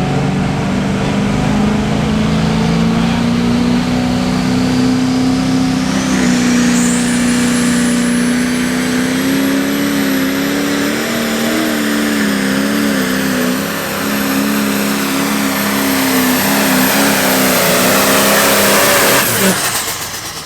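Turbocharged diesel pulling tractor running wide open under load on a pull. A high turbo whine climbs about six seconds in and holds at a shrill pitch. The engine drops off suddenly near the end, the whine falling away as the run ends.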